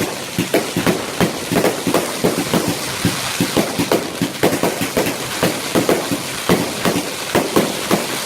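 Fireworks going off in a quick, irregular run of bangs and pops, about three or four a second, over a steady hiss.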